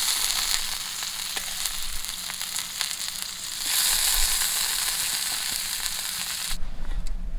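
Beef rump cap (ichibo) sizzling on a hot grill, a steady hiss with fine crackling. The sizzle swells about halfway through and cuts off abruptly near the end.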